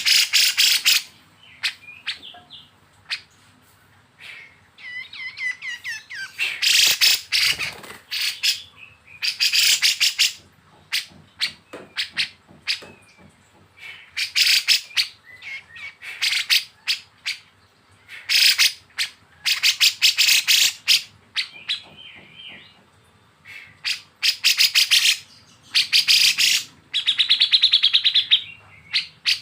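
Kapas tembak and cucak jenggot bulbuls singing: loud bursts of rapid, harsh chattering ('besetan') repeat every second or two between softer whistled phrases. Near the end comes a fast, even rattling trill.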